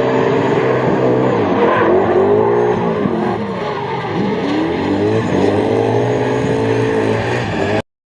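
Car engine revving up and down over and over with tyre squeal, as a car drifts. The sound cuts off suddenly near the end.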